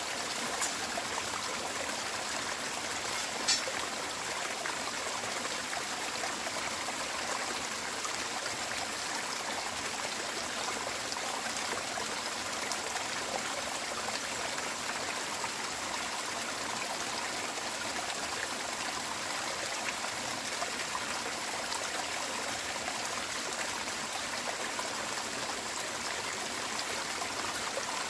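Running water, a steady even rush with a trickling edge, with two brief clicks in the first few seconds.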